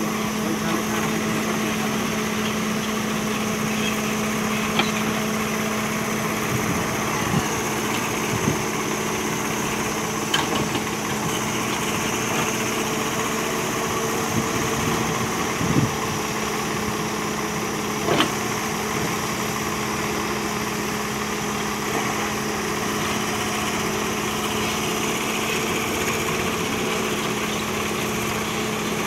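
JCB backhoe loader's diesel engine running at a steady speed, with a few short knocks scattered through.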